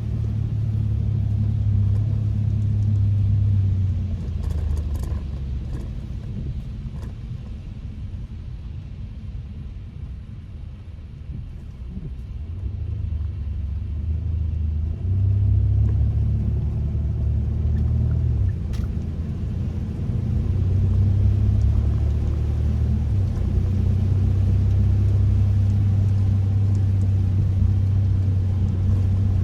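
Low road and engine rumble of a Kia K5 (DL3) being driven. It eases off for a few seconds near the middle, then grows louder again.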